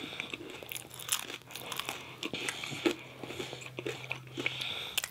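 Close-miked eating sounds: irregular crunching, biting and wet chewing of food, in quick small snaps and clicks, with a faint low hum underneath through the middle.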